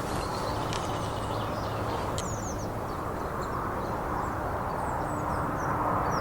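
Outdoor ambience: a steady rumbling noise with a faint low hum, while small birds chirp briefly a few times, about two seconds in and again near the end.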